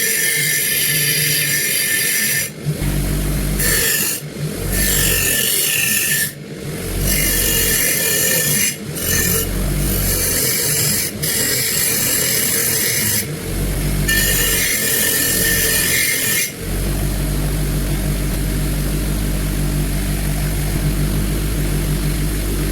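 Power tool abrading gun metal in repeated stretches of high hiss broken by short pauses. In the last few seconds only a steady low motor hum remains.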